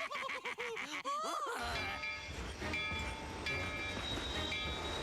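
Cartoon train running with a low, steady rumble, its whistle sounding in several held tones that start and stop, from about a second and a half in. Before that comes a quick run of rising and falling vocal sounds.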